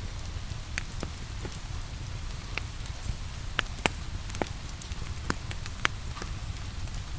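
Steady rain with a wood fire crackling: a continuous low rumble and hiss, with sharp, irregular pops and ticks scattered through it.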